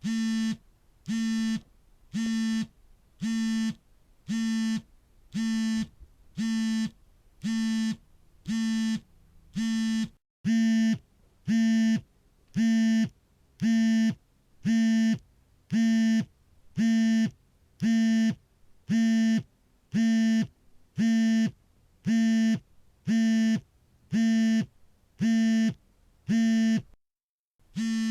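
Smartphone vibration motor buzzing in regular pulses, about one a second and each about half a second long: the phone's vibrate alert for an incoming call. A short silent break comes about ten seconds in, after which the buzzing is louder, and another silent gap comes near the end before the pulses resume.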